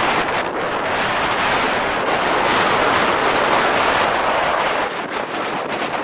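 Strong wind buffeting the microphone, a loud rushing noise that swells and eases with the gusts, with no clear engine or motor tone in it.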